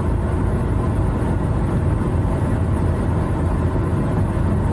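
Semi-truck engine and road rumble heard from inside the cab while driving, a steady low drone.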